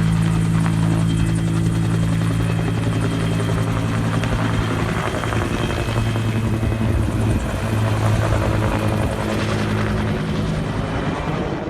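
Firefighting helicopter running close by, its turbine and rotor making a loud, steady drone with a strong low hum.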